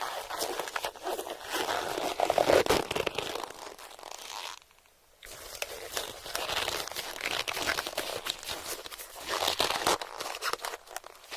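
Close-miked ASMR eating sounds: crisp crunching and crinkling noises throughout, broken by a short pause about five seconds in.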